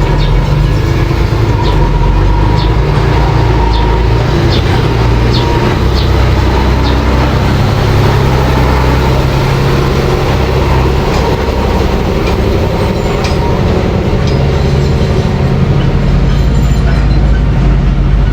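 Mini bulldozer's engine running steadily, with irregular clanks from its tracks about once a second.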